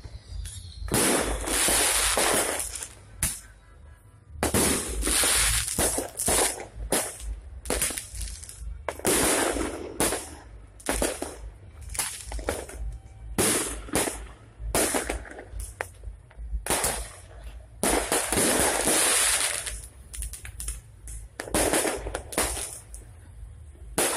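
Aerial fireworks bursting overhead in quick succession: sharp bangs, mixed with long crackling bursts of a second or two that come about every four seconds.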